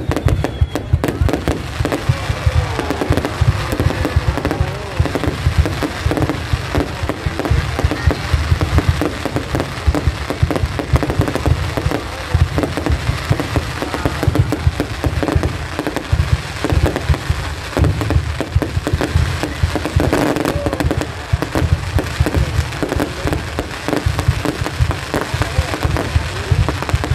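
Aerial firework shells bursting in a dense, continuous barrage of deep bangs and crackling.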